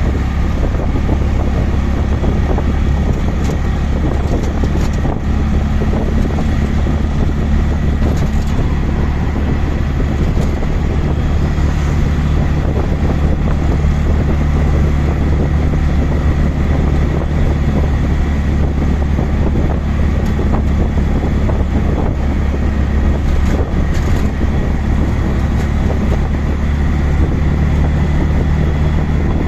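Auto rickshaw engine running steadily on the move, heard from inside the open cabin, with wind noise on the microphone.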